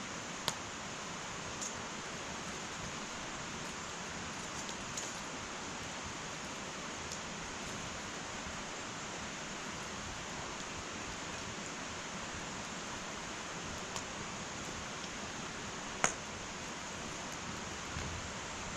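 Wood fire burning in an irori sunken hearth: a steady hiss with a few sharp crackles and pops, the loudest about sixteen seconds in.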